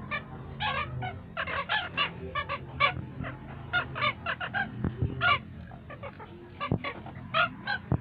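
Several white-headed stilts calling: short, sharp yapping notes repeated in quick clusters, overlapping one another.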